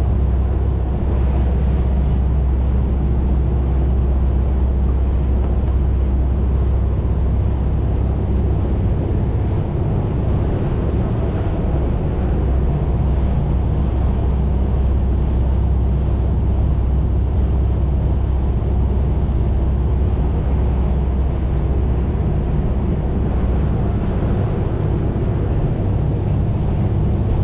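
A boat's engine running with a steady low drone while under way, with wind and water rushing past.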